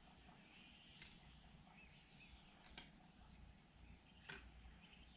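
Near silence: faint room tone with three faint clicks about a second and a half apart, and a few faint bird chirps.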